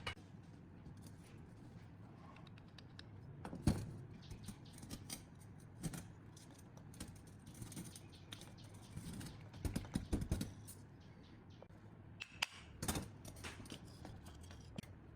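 Irregular clicks, knocks and short scrapes of small parts and hand tools being handled, with the sharpest knock about four seconds in and a quick run of clicks around ten seconds in.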